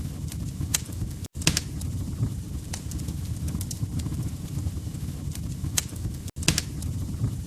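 Wood fire crackling in a fireplace: a steady low rumble with irregular sharp pops and snaps. The sound cuts out for an instant twice, about five seconds apart.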